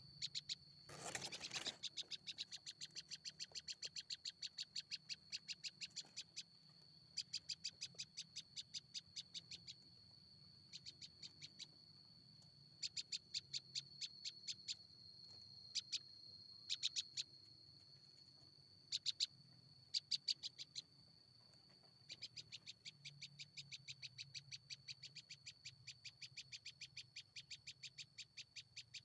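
Small bird giving bouts of rapid, evenly spaced ticking calls, about four to five a second, with short pauses between bouts, over a steady high-pitched whine.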